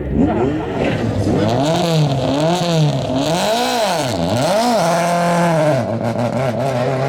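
Rally car engine revved hard up and down several times in quick succession, then held at fairly steady revs.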